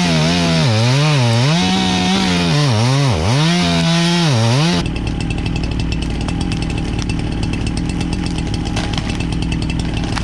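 Chainsaw running at high revs, its pitch repeatedly dipping and recovering as it bogs down under load in the cut. About five seconds in, the sound changes abruptly to a rougher, steadier saw noise.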